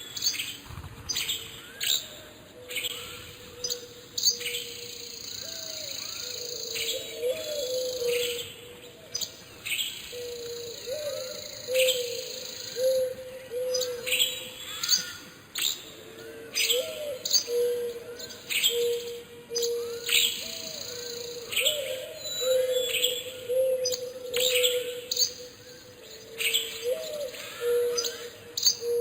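Several songbirds chirping and tweeting in quick, overlapping calls, with a lower steady tone underneath that wavers every few seconds.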